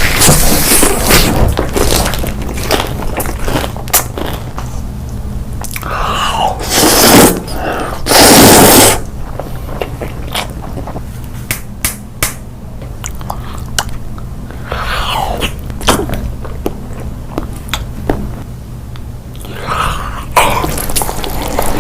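A person chewing and biting food close to the microphone: repeated mouth clicks, crunches and smacks. A loud rushing burst comes about eight seconds in.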